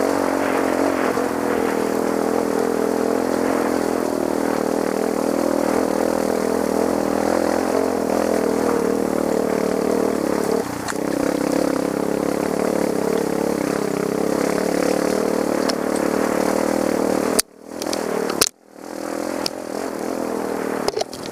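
Trail motorcycle engine running under throttle as it is ridden, its pitch rising and falling. The sound cuts out briefly twice near the end.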